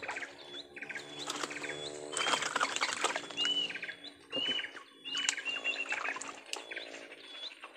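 Birds calling: many short, high whistled notes and chirps repeating over and over, above a steady low hum.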